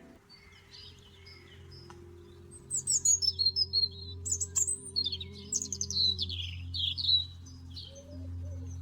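A songbird singing a rapid, high-pitched song of chirps and falling sweeps, loudest from about three seconds in to about seven, over soft sustained background music.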